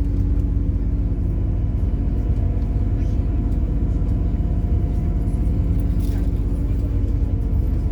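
MAZ-103 city bus running on methane (compressed natural gas), heard from inside the passenger cabin: a steady low engine drone and rumble with no change in pitch.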